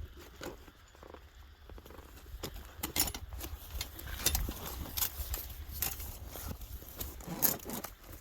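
Scattered knocks and clicks from hauling a trapped beaver and its trap out of the water, with a couple of short grunts of effort, over a low wind rumble on the microphone.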